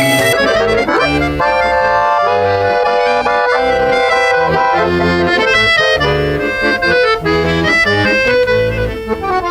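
Accordion duet playing a tune: a melody over sustained chords, with the bass notes pulsing in a steady beat.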